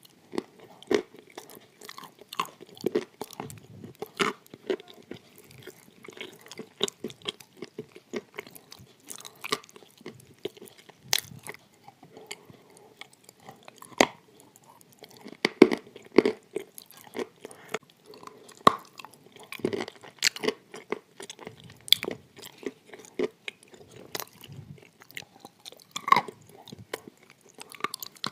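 Close-miked chewing and crunching of grey clay: irregular wet crackles, bites and mouth clicks with no steady rhythm.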